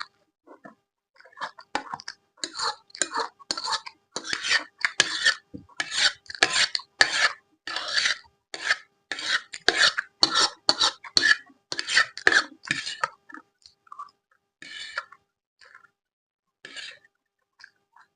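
Close-miked eating sounds: rhythmic rasping, rubbing strokes about two a second for roughly twelve seconds, then a few scattered ones near the end.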